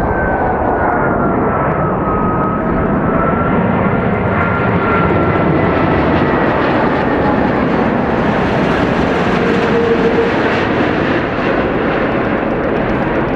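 Airbus A380's four Rolls-Royce Trent 900 turbofans on landing approach, a loud steady jet roar with an engine whine that slides down in pitch in the first couple of seconds, as it passes, then holds. The roar gets brighter and hissier about two-thirds of the way through.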